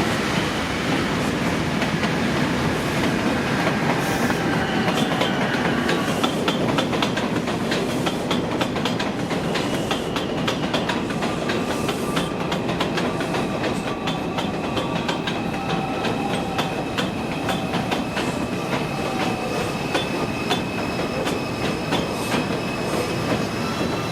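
R142 subway train running into the station, its wheels clacking rapidly over the rail joints. From about five seconds in, a high steady whine rides on top of the clatter.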